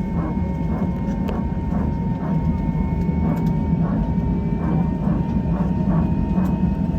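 Airbus A321 cabin noise on the ground before takeoff: a steady low rumble with a thin, steady high whine over it.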